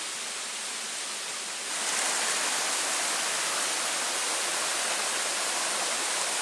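Chapel Falls' rushing water, a steady, even hiss that grows louder about two seconds in.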